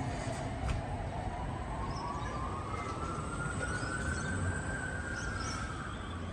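A distant siren wailing slowly: one tone that dips, then rises over several seconds and falls again, over steady city traffic noise. Faint bird chirps come through now and then.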